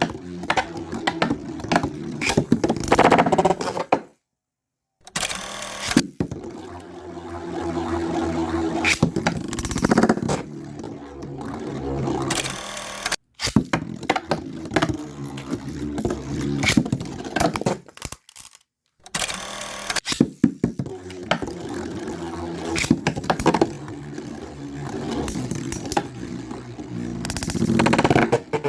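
Storm Pegasis and Lightning L-Drago Beyblade spinning tops whirring and clashing in a stadium, with frequent sharp clicks from their collisions. The sound is cut into several rounds, and some rounds open with a burst of noise from a launch.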